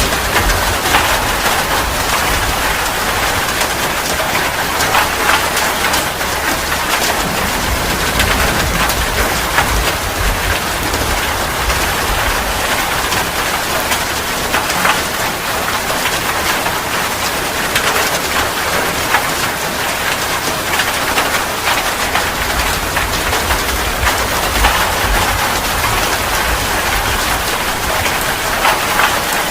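Heavy rain falling steadily, a dense patter of drops striking surfaces, with a low rumble swelling and fading underneath several times.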